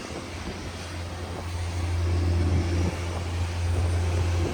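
Low, steady hum of an electric train at the platform, swelling and easing in level.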